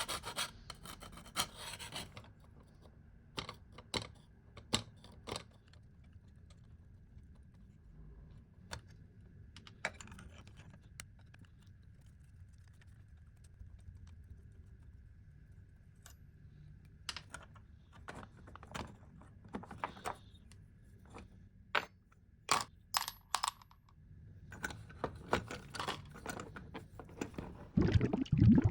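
Scattered clicks, light knocks and scrapes of small metal and wooden parts of a vintage coffee grinder being handled and worked on with hand tools, with a louder scraping near the end.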